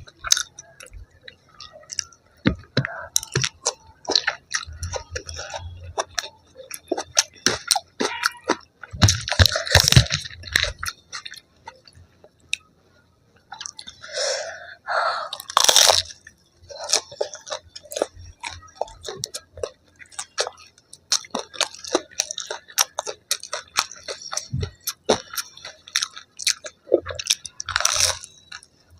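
Close-up crunchy chewing and biting of crisp fried food: a dense run of short crackles, with a few louder bites and a brief pause a little before halfway.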